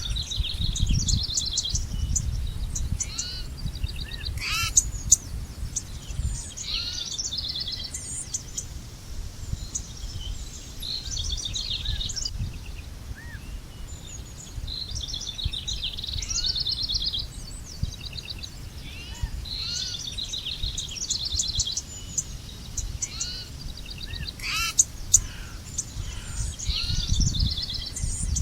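Several songbirds singing and calling together: fast trills and chirps, with short curved whistled notes, over a steady low rumble.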